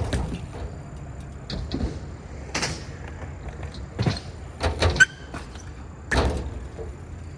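BMX bike tyres rolling on concrete, with about five sharp thumps of tyre taps on the lip and wheel landings; the loudest comes about five seconds in.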